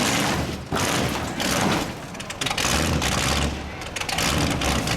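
Monster truck engine running loud, with its level surging and dropping back several times as the throttle is opened and eased.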